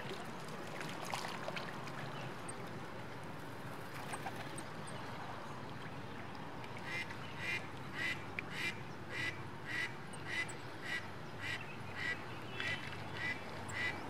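A bird calling in an even series of short, nasal-toned calls, a little under two a second, starting about seven seconds in, over a steady background hiss.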